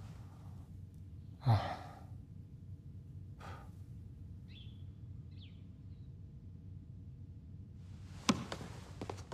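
A person sighs heavily about a second and a half in, the breath falling away, followed by a softer breath; two faint short chirps and a sharp click near the end sound over a steady low hum.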